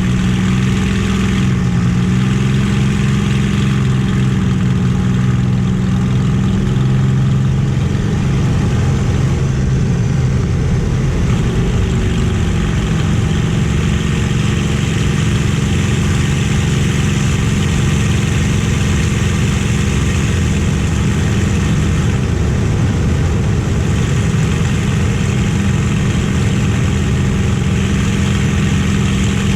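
Rolls-Royce/Packard Merlin V12 aero engine of a warbird running steadily in flight: a constant, even drone with small shifts in pitch about two seconds in and again around ten to twelve seconds in.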